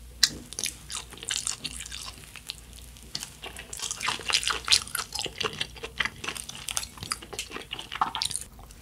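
Close-up chewing of a mozzarella cheese corn dog: a dense run of quick mouth clicks and smacks, busiest in the second half.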